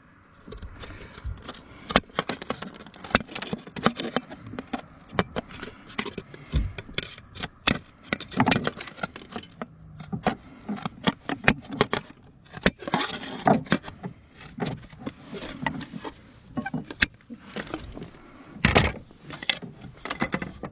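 Scattered clicks, taps and knocks with scraping in between, from fibre-cement artificial slates and nails being handled and set in place.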